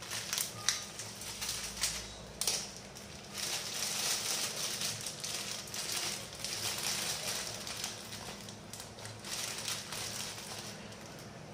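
A plastic packet of papads being handled and opened: crinkling and crackling rustles, with a few sharp clicks at first and a longer stretch of rustling through the middle.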